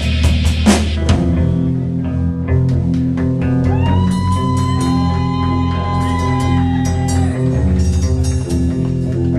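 Rock band playing guitar, bass and drums, with busy cymbal strokes in the first second, then long held notes over a steady bass line in the middle.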